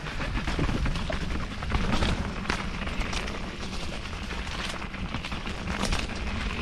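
Enduro mountain bike descending a wet trail, recorded on a GoPro: a steady low wind rumble on the microphone, with irregular clatters and knocks as the bike rattles over rough ground.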